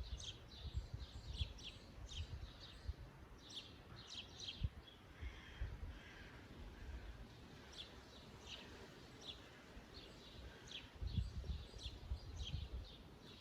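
Small songbirds chirping in quick runs of short, high notes, over a low rumble that swells in gusts and is loudest near the end.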